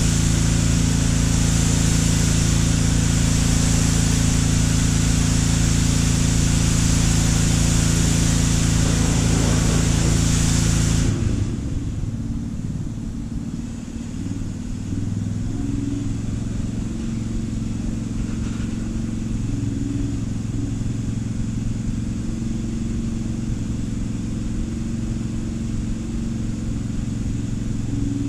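A motor running steadily with an even low hum. A loud hiss runs over it and cuts off suddenly about eleven seconds in.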